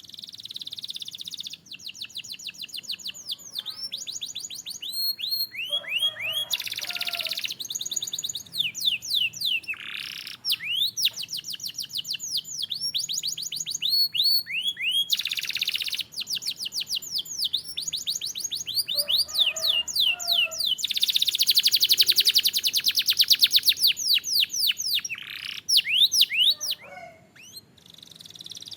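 Canary singing: a continuous song of fast trills, each a run of quickly repeated notes sweeping down in pitch, switching to a new trill every second or two. About two-thirds of the way through comes a very rapid, buzzing roll, the loudest part, followed by a brief pause near the end.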